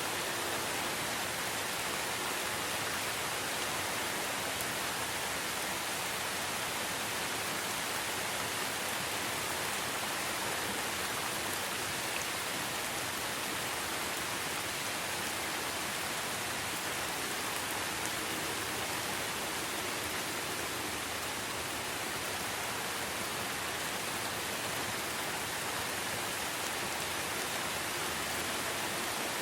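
Steady rain falling in a forest, an even hiss of noise with no distinct drops or thunder.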